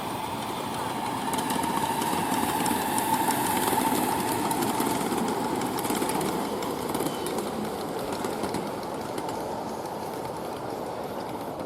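Small-scale train running on its track, a steady mechanical hum with rapid light clicking through the first half.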